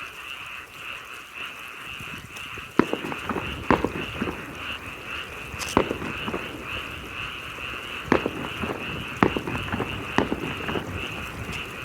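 Fireworks shells bursting in the sky: a series of sharp bangs at irregular intervals, some with a short rumbling tail, over a steady high pulsing chorus in the background.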